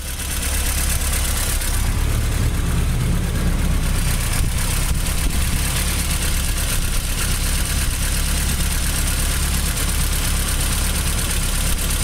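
Chevrolet Vega's 140 cubic inch (2.3-litre) aluminium-block inline-four idling steadily.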